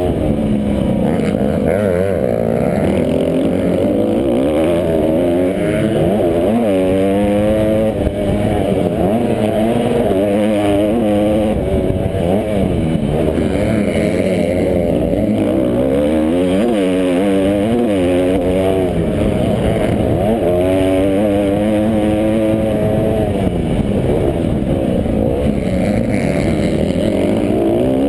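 Motocross bikes' engines revving hard and dropping back again and again as they shift and throttle through the track, several overlapping and rising and falling in pitch.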